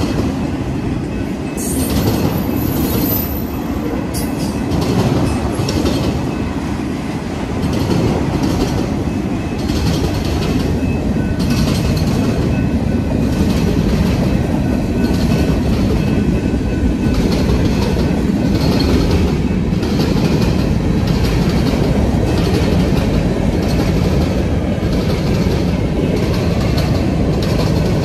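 A freight train's cars roll past at close range: a steady heavy rumble with wheels clattering over the rail joints. A brief high squeal comes about two seconds in.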